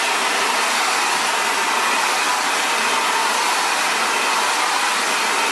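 Xtava Allure 2200-watt ionic ceramic hair dryer running steadily, blowing hot air: an even rush of air with a faint steady whine from its motor.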